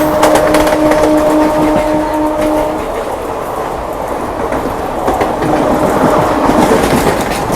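Electric suburban local train running at speed, wheels clicking over the rail joints under a steady rumble. A steady pitched tone sounds over it and stops about three seconds in.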